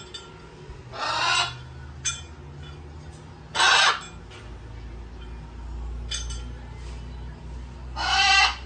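Parrot squawking: three loud, harsh calls of about half a second each, about a second in, around three and a half seconds in, and near the end.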